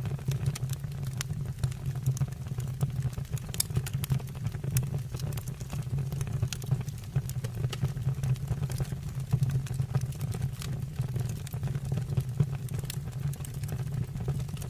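Fire burning in a fireplace: a steady low rumble of the flames with frequent sharp crackles and pops.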